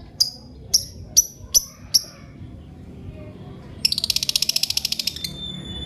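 Lovebirds calling: five sharp, high chirps in the first two seconds, then about four seconds in a fast rattling trill lasting over a second, followed by a thin, steady high whistle near the end.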